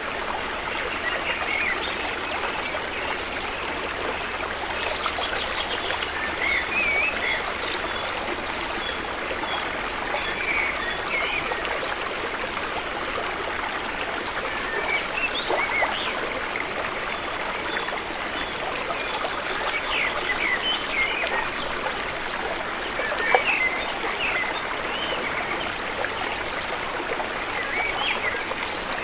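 River water flowing steadily, with small gurgles and trickles over the top.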